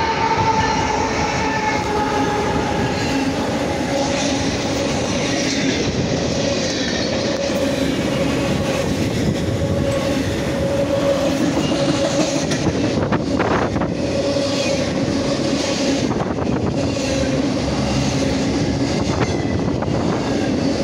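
BNSF freight train passing close by: the diesel locomotive goes by at the start, then intermodal cars loaded with truck trailers roll past with a steady loud rumble and the clack of wheels over the rails.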